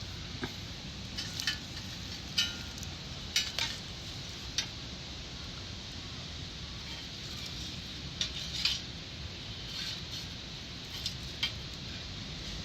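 Small wood fire crackling in a compact metal fire pit: about a dozen sharp, short pops scattered irregularly over a steady low hiss.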